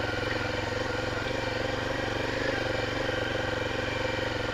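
Honda Tornado 250's single-cylinder four-stroke engine running steadily as the motorcycle is ridden, holding an even pitch with no revving.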